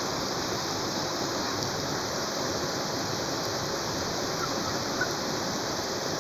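Steady rain falling, a continuous even hiss with a few faint drop ticks.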